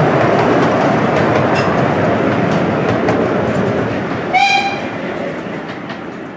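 Miniature-railway passenger carriages rolling past and away along the track, the noise fading steadily as the train leaves. About four seconds in, the Exmoor 0-4-2T steam locomotive gives one short whistle blast.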